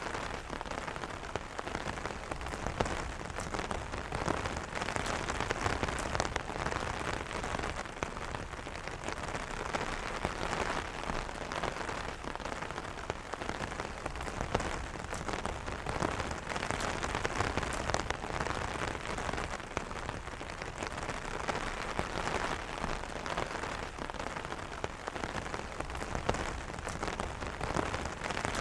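Steady rain pattering on an umbrella's fabric canopy, a dense even hiss dotted with countless small drop taps.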